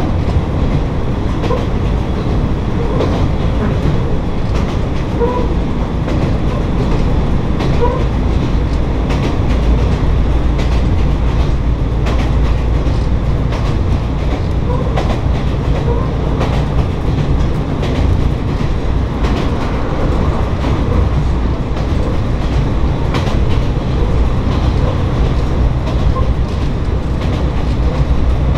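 Interior sound of a Kanto Railway Joso Line diesel railcar running: a steady low rumble of engine and wheels, with the clickety-clack of the wheels crossing the joints of jointed (not long-welded) rail.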